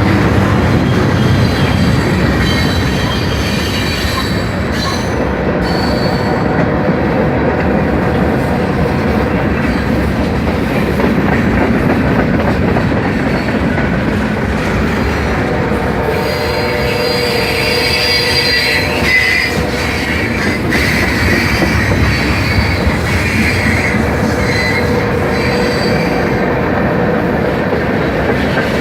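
Mixed freight train's cars rolling past, a steady loud rumble of wheels on rail, with high-pitched wheel squeal that grows stronger from about halfway through.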